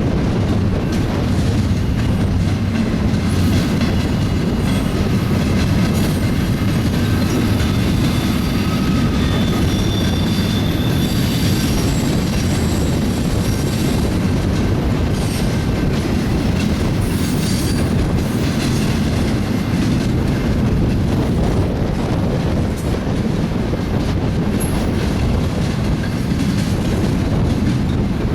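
BNSF double-stack container train rolling past steadily, the cars' steel wheels clacking over the rail joints. Thin, high wheel squeals come and go, mostly in the middle stretch.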